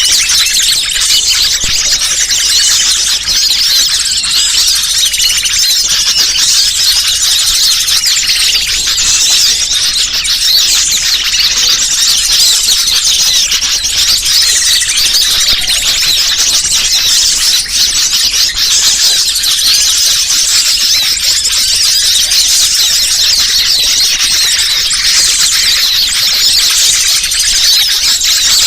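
Bird-lure call recording: a dense, unbroken chorus of high-pitched chirping and twittering from small birds, played loud.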